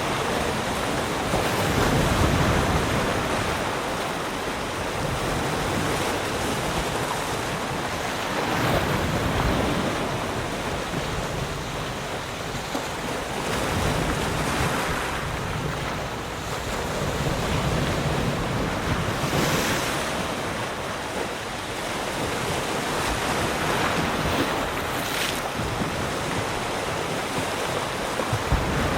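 Sea surf: waves breaking and washing on the shore in a continuous rush that swells and ebbs every few seconds, with some wind on the microphone.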